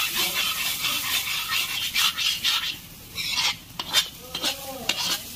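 Chopped tomatoes sizzling in hot masala in an iron kadai while a wooden spatula stirs and scrapes the pan. The sizzle thins out about halfway through, leaving separate scraping strokes.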